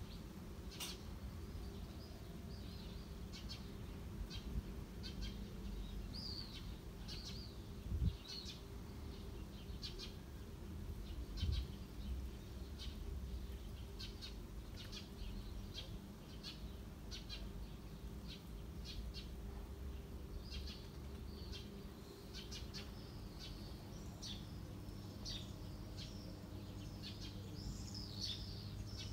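Small birds chirping, short high chirps repeating throughout, over a steady low background rumble. Two brief low thumps come about 8 and 11 seconds in.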